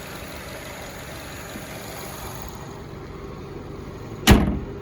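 The Nissan Rogue's 2.5-litre four-cylinder engine idling steadily. About four seconds in comes a single loud slam, like a hood or car door being shut.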